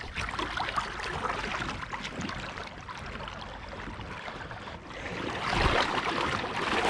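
Water sloshing and splashing around a kayak in a shallow river, growing louder in the last couple of seconds.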